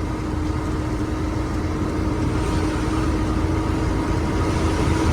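Truck engine and road noise while driving: a steady low rumble with a constant hum.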